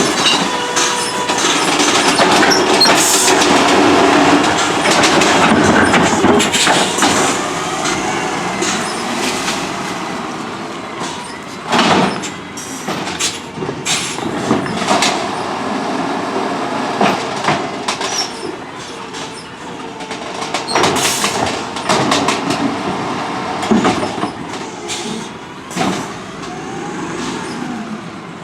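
CNG-powered Autocar ACX automated side-loader garbage truck working, its running noise broken by repeated metallic clanks and knocks. The noise is loudest in the first few seconds and eases off after about ten seconds.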